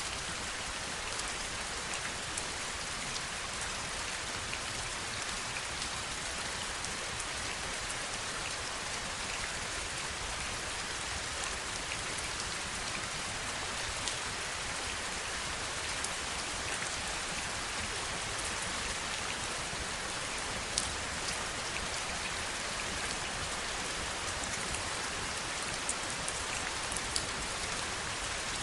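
Steady heavy rain, an even hiss with individual drops ticking sharply here and there, one of the sharpest about two-thirds of the way through.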